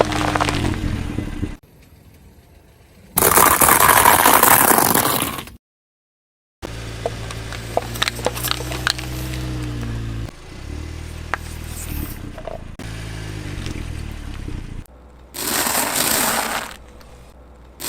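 Car engine running low and steady while its tyre rolls over and crushes objects: two loud bursts of crunching and crackling, with sharp cracks and snaps in between. The sound drops out suddenly for about a second a third of the way in.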